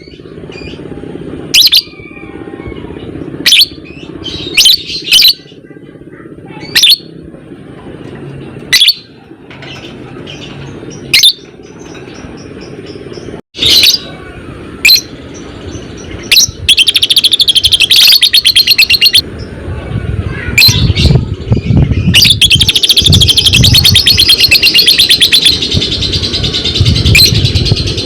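Lovebird calling. Sharp single shrieks come every second or two, then from about halfway a long, rapid chattering trill (ngekek) starts, breaks off briefly, and resumes, running on at length.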